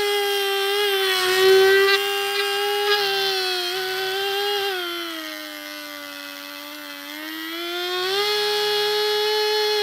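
Small brushed DC toy motor, overdriven from a 12 V supply, running with a loud, steady high-pitched whine. About five seconds in, its pitch and loudness sag, then climb back up about three seconds later.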